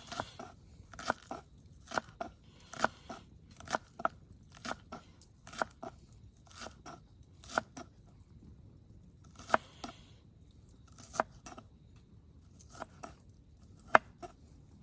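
Kitchen knife chopping green onion on a cutting board: single crunchy chops, slow and uneven, a little under a second apart, with one louder chop near the end.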